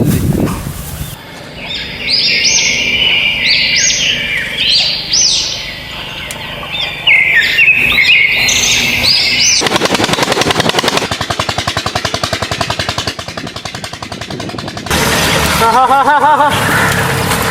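Birds chirping, with quick rising and falling calls, for about the first half. Then a fast, even rattling pulse takes over for several seconds. Near the end a wavering pitched call comes in.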